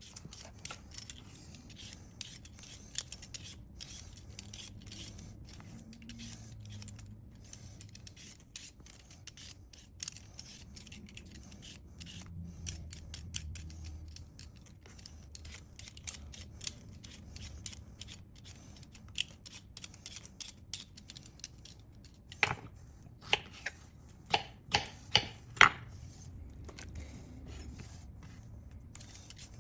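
Kitchen food-preparation sounds: light scraping, rubbing and small clicks of utensils, then a run of about eight sharp knocks a little over two-thirds of the way in.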